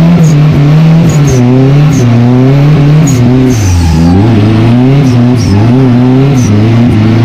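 Turbocharged Chevette's engine heard from inside the cabin, very loud, its revs rising and falling again and again as the car is drifted. Short high chirps come and go over the engine.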